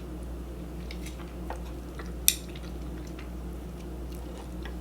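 Eating utensil scraping and clinking against a bowl of ramen while trying to lift out noodles that have stuck together, with light scattered clicks and one sharp clink about two seconds in.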